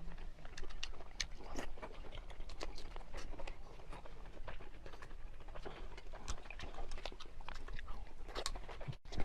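Close-miked eating sounds: a person chewing and biting food, with a dense, irregular run of wet crackles and clicks. The sound drops out briefly near the end.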